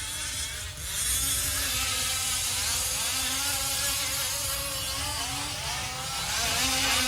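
Several 1/5-scale RC off-road trucks' small gas two-stroke engines buzzing together, their pitch rising and falling as they throttle on and off around the track. There is a brief dip in loudness about a second in and again near six seconds.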